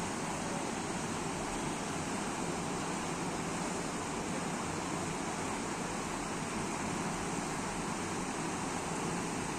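Steady, even rushing of water, as from heavy rain and flooded streams.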